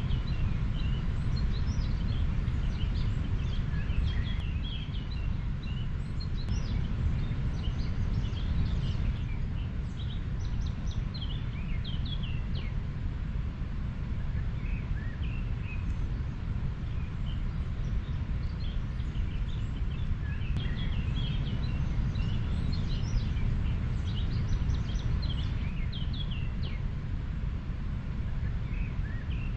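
River water flowing with a steady low rush, with small birds chirping in scattered bursts over it.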